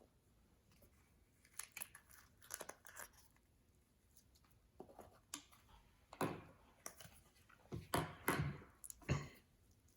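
Bubblegum slime being handled by hand: sticky crackles, squelches and tearing sounds as it is stretched and pressed, sparse at first and louder and more frequent in the second half.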